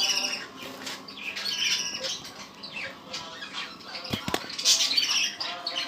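A group of budgerigars chattering and squawking in quick, repeated chirps, with two short knocks about four seconds in.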